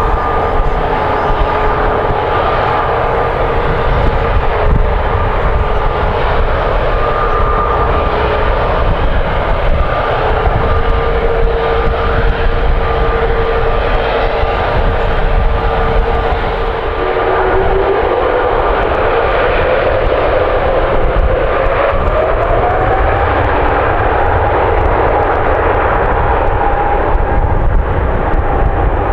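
Jet airliner engines running loud and close, a heavy roar with a steady high whine. Partway through, the engine whine rises in pitch and then holds at the higher note.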